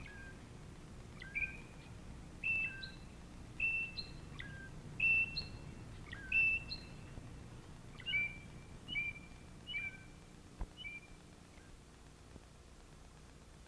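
A bird chirping: a short call repeated about once a second, then quicker, weaker chirps that fade out near the end.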